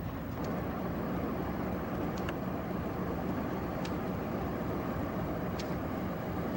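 Freight train rolling past: a steady rumble with brief high wheel squeaks every second or two.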